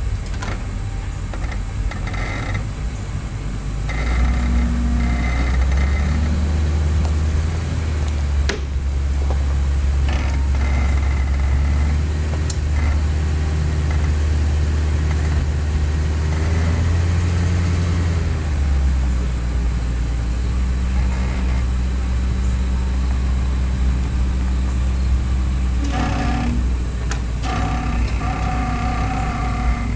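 A motor vehicle's engine running with a steady low rumble that shifts in pitch and level a few times, as if speed or load is changing.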